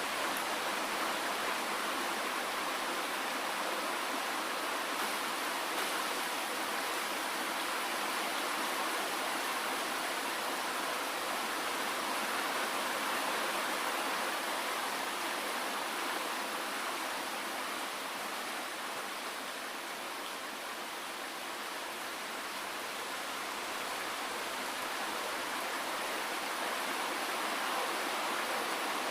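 Steady rain falling, an even hiss of many drops with no single drop standing out; it dips a little in level about two-thirds of the way through.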